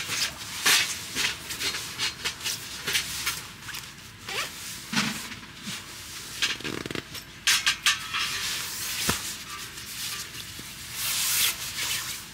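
A run of short scraping and rustling strokes, with a longer, louder rasp near the end.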